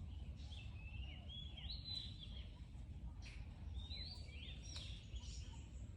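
Birds chirping in two short bursts of quick, sweeping high notes over a steady low outdoor rumble.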